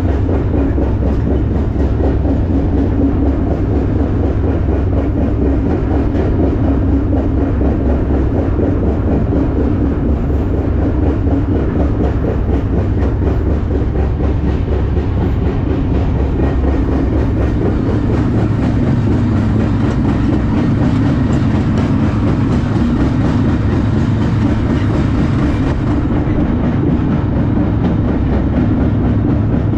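Ride noise aboard a moving intermodal freight car: a loud, steady rumble and rattle of the car rolling on the rails.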